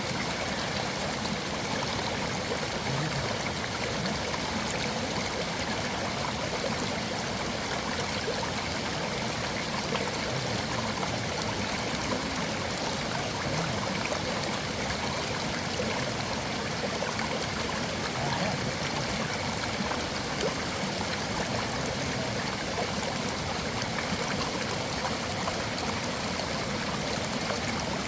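A mountain stream flowing steadily, water rushing over rocks in an unbroken hiss.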